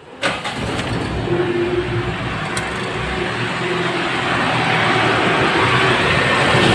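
A car's four-cylinder petrol engine starts with a sudden burst right at the beginning, then runs steadily at idle, growing somewhat louder.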